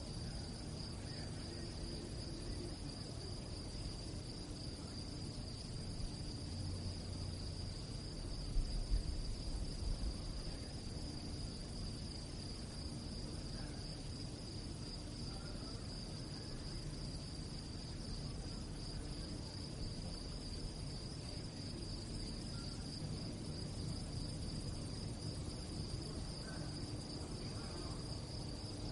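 Crickets chirring in one steady, high, continuous trill over a low background rumble. About eight seconds in, a brief low rumble swells louder for a couple of seconds.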